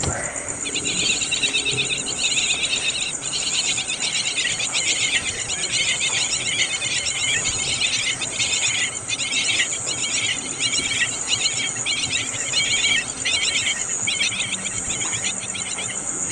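Animal calls: rapid, buzzy chattering trills in many short bursts over a steady high-pitched buzz.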